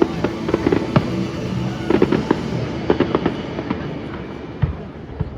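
Fireworks going off in a rapid, irregular series of bangs and crackles, thinning out briefly near the end.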